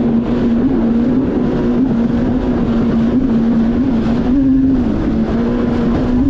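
Yamaha VX Cruiser H.O. WaveRunner's 1.8-litre four-stroke engine running at a steady high speed under a rush of water and wind noise. Its pitch wavers slightly and lifts briefly about four seconds in.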